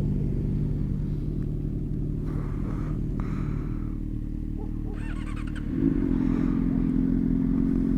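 Motorcycle engine idling steadily. About six seconds in, a louder, higher engine note cuts in and holds.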